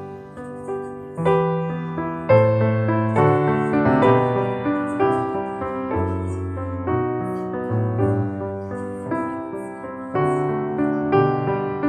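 Background music: a gentle piano piece, single notes and chords struck one after another and left to ring.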